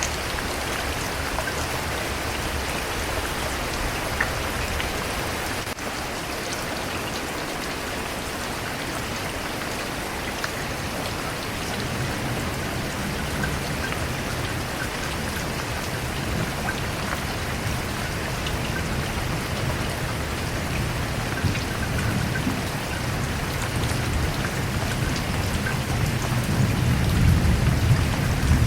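Steady rain falling on a surface, with a low rumble of thunder that builds through the second half and is loudest near the end.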